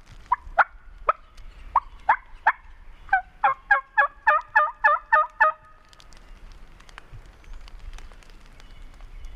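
Turkey calling: a string of separate sharp yelps, then a fast rattling run of notes, about five a second, lasting a couple of seconds and stopping about five and a half seconds in.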